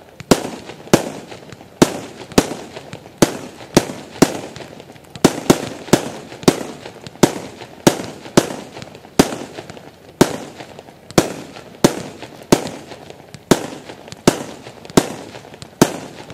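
A fast series of sharp cracks or bangs, about one and a half a second at a fairly even pace, each with a short echoing tail.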